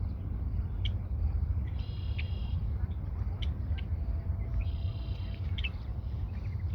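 Red-winged blackbird singing: two buzzy, rattling trills about three seconds apart, each led by short sharp notes, with a few more sharp call notes between them. A steady low rumble runs underneath.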